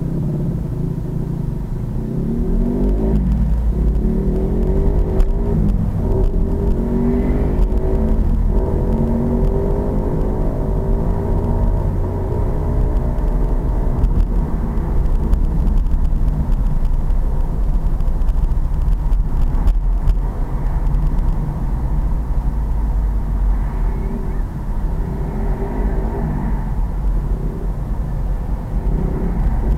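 Pit bike's small single-cylinder engine running under way, its pitch rising and falling several times in the first ten seconds as it revs up and shifts, then running steadier, over a heavy low rumble.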